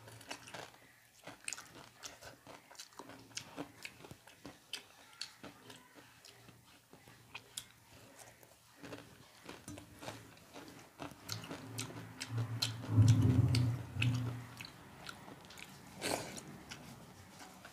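Someone biting and chewing a crunchy fried namkeen snack mixture, a quick run of sharp crunches through the first half, then softer mouth sounds. A low hum lasts about two seconds around twelve seconds in.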